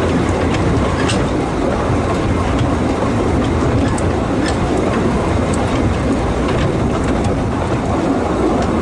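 A 2 ft gauge steam train running steadily, heard from a carriage behind the locomotive: a continuous rumble of wheels on track with a few scattered short clicks.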